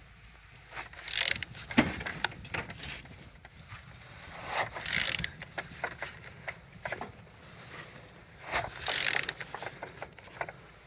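FL10WMU engine being turned over by hand with a ratchet wrench on the crankshaft: scattered ratchet clicks and three longer noisy strokes about four seconds apart. It turns freely, with compression judged complete on all cylinders.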